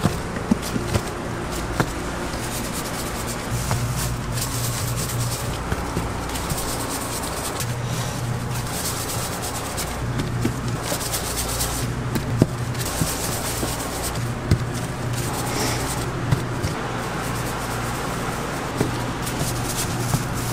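Hands rubbing and scraping dough at a doughnut stall's work table, with scattered small knocks over a steady low hum.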